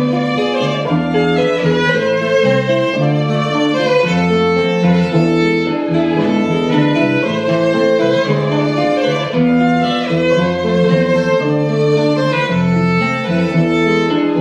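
Instrumental break in a song: a violin plays the melody in long held notes over a lower accompaniment, with no singing.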